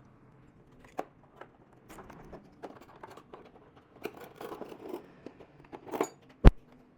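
Scattered small clicks, scrapes and rustles of things being handled, with one sharp knock near the end.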